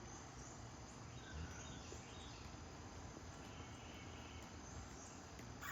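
Faint, steady chirring of crickets and other insects, with a few faint, short bird calls.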